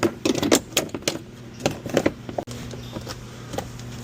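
Sharp clicks and knocks of a car's plastic interior door panel being handled and pried at its trim clips, coming in quick irregular strokes for the first couple of seconds. From about halfway through, a steady low hum joins in.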